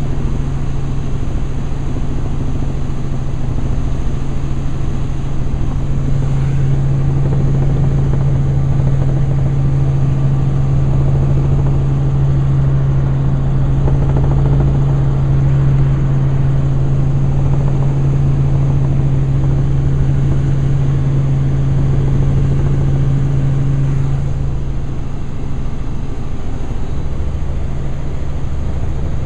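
Helicopter in flight, heard from inside the cabin: a steady drone of engine and rotor with a strong low hum. It grows a little louder about six seconds in and eases off again near the end.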